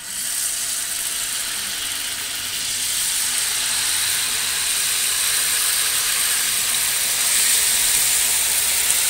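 Jalebi batter sizzling as it is piped into hot ghee in a frying pan: a steady, loud hiss that grows a little louder a few seconds in as more batter goes into the oil.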